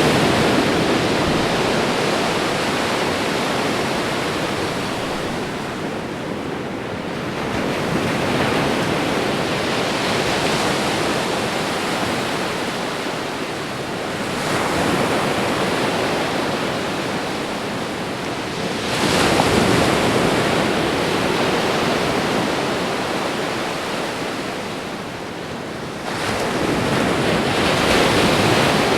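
Ocean surf: a continuous rushing wash of breaking waves. It swells as each new wave breaks, about every five to seven seconds, and ebbs between them.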